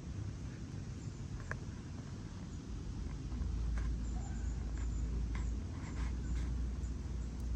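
Wind rumbling on the microphone, heavier from about three seconds in, with scattered light taps and clicks over it.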